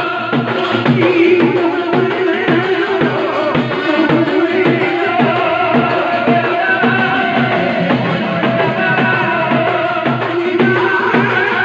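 Folk music led by a dhol drum beating a steady, even rhythm, with a melody line over it.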